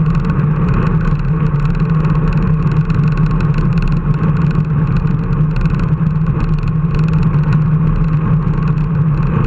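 A motor running at a steady speed, giving a constant low hum with noise over it.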